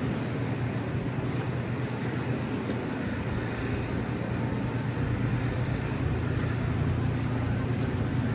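City street traffic with a steady low engine rumble from nearby vehicles, growing slightly louder about five seconds in.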